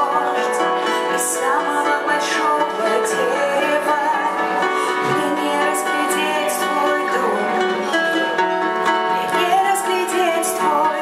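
A live band playing a song, with many sustained notes and a wavering melody line over them.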